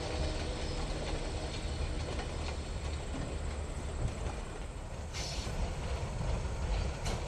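Diesel-hauled freight train rolling past: a steady low rumble of the engines and railcars on the track. Brief hissing bursts come about five and seven seconds in.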